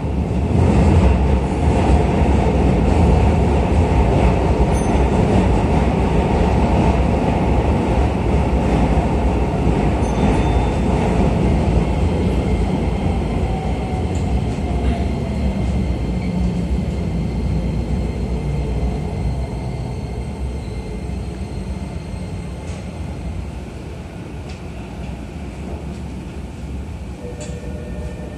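Running noise heard inside a Keisei New 3000 series electric train as it slows into a station: the low rumble of wheels and rails fades steadily, and a faint motor whine falls in pitch as the train brakes.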